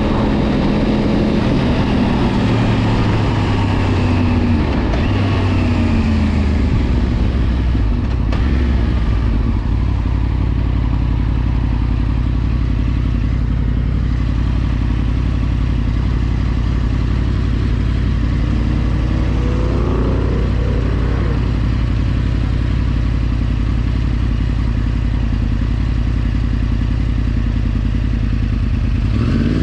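Yamaha R1's inline-four engine heard while riding. Its pitch falls over the first several seconds as the bike slows, then it runs steadily at lower revs, with a brief rise and fall in pitch about twenty seconds in.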